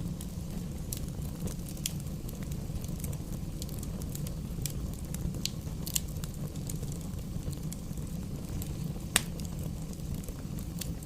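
Fire burning in a fireplace: a steady low rumble of flames with scattered crackles and pops, one sharp pop standing out near the end.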